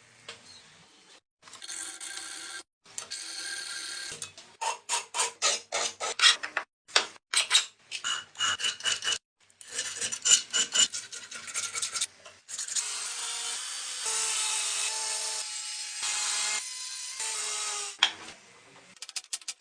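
Scraping strokes of abrasive hand work on an old axe head, back and forth at about two to three strokes a second. This gives way to a longer, continuous rasping stretch. The sound comes in several short segments, each cut off abruptly.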